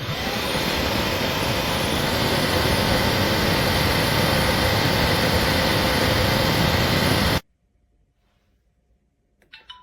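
Bissell CrossWave OmniForce wet-dry vacuum motor starting with a short rising whine, then running loudly and steadily. It cuts off suddenly about seven seconds in, followed by a few faint clicks.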